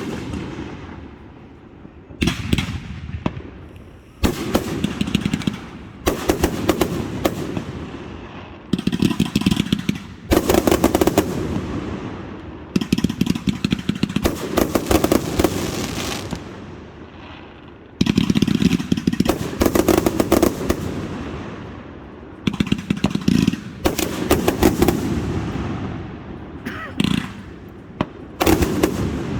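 Fireworks display: a steady sequence of aerial shells bursting with loud bangs, many followed by rapid crackling, in volleys every second or two, each fading away as it echoes.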